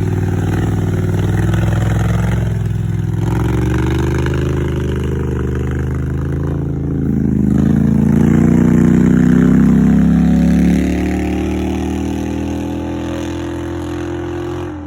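2010 Polaris Sportsman 850 ATV's twin-cylinder engine running through a cheap aftermarket eBay exhaust. It is revved up from about seven and a half seconds in, held louder until about eleven seconds, then eases back down.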